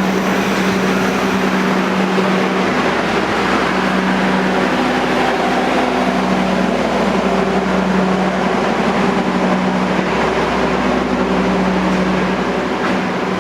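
Passenger train running, a constant low engine drone with a few steady tones under an even noisy rush.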